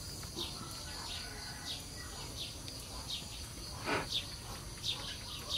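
A bird chirping repeatedly in short falling notes over a steady high-pitched insect drone, with one louder call about four seconds in.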